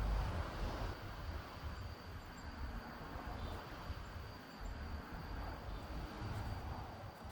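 Outdoor ambience: a thin, steady high insect drone over an uneven low rumble and a noisy hiss.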